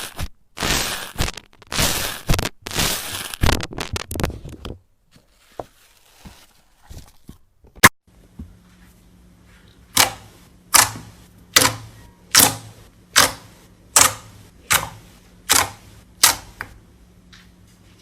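Slime being handled with the hands: dense crackling squishes for the first few seconds, then after a pause and a sharp click, a regular series of about nine short presses, a little under one a second, over a faint steady hum.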